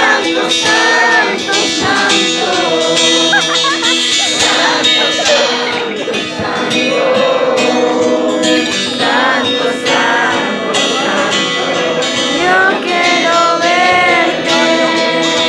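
Singing with a strummed acoustic guitar: a song carried by voices over a steady guitar strum.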